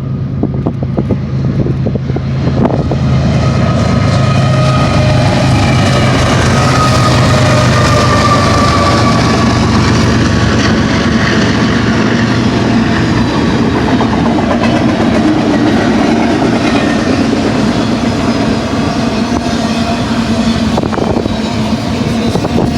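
BNSF freight train passing, its diesel-electric locomotives running with a steady low hum for the first half, giving way to the rumble of the wheels on the rail.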